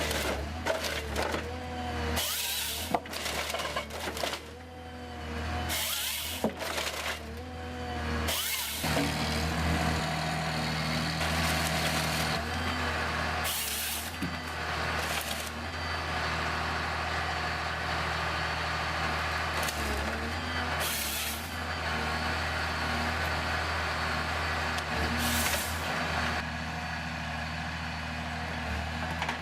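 Heavy diesel machinery running steadily, with short hisses of air or hydraulics every few seconds.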